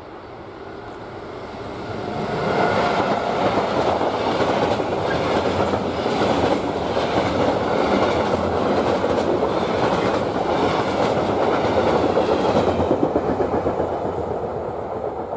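Electric freight train with a string of covered hopper wagons passing close by. The rumble builds about two seconds in, then the wagon wheels clatter over the rails in a steady rhythm, easing off near the end as the last wagons go by.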